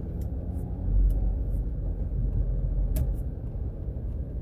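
Steady low road and engine rumble of a car being driven, heard from inside, with a few faint clicks scattered through it, the sharpest about three seconds in.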